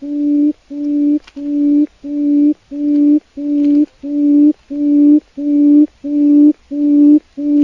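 Forest quail call: a low, steady hooting note repeated evenly about twice a second, each note swelling in loudness and then cutting off.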